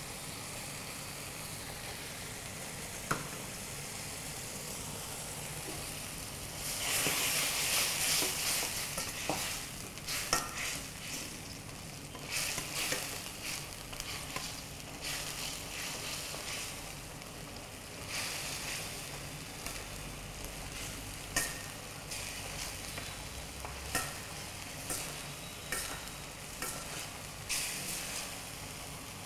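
Chicken lollipop pieces sizzling in a chilli-masala gravy in a pan, a steady sizzle at first. From about seven seconds in, a ladle stirs and turns the chicken, with a louder rush of sizzling and then a run of scrapes and clicks against the pan as the gravy cooks down.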